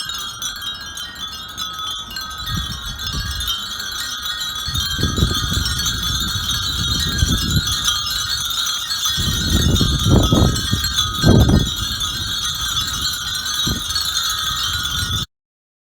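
Dozens of Japanese furin wind bells tinkling together in a dense, continuous shimmer of high ringing. A low rumble swells and fades several times, strongest about ten to eleven seconds in, and the sound cuts off suddenly near the end.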